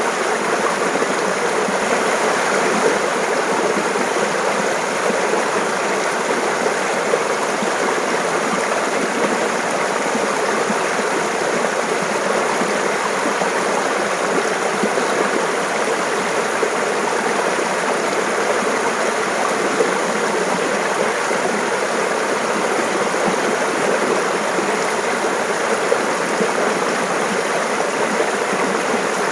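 Mountain stream babbling over rocks, a steady splashing rush of water with no change in level.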